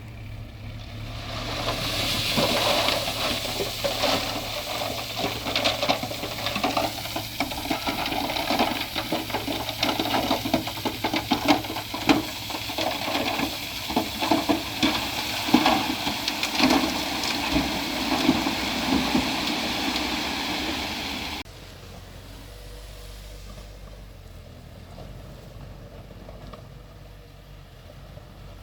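A load of rock and dirt sliding and tumbling, a rushing noise crowded with clattering knocks of stones. It swells over the first couple of seconds and cuts off abruptly a little past the two-thirds mark, leaving a steady low hum of an idling heavy engine.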